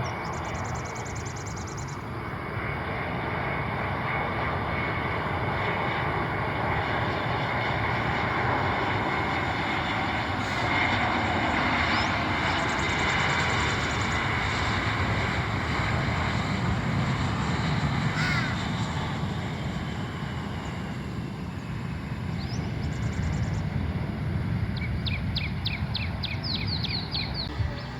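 Airliner engines running, a steady rushing roar that builds over the first few seconds, is loudest in the middle and eases slightly toward the end.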